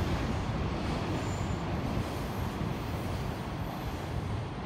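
Freight train of container wagons passing, a steady rumble of wheels on rail that eases slightly near the end.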